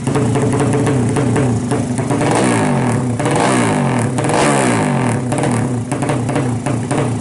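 Race-tuned 200cc motorcycle engine running at idle with a fast, choppy exhaust beat. It is blipped up and down a few times in the middle, then drops back to idle. The title calls the exhaust note stuttering ('putus-putus') during the engine's setup.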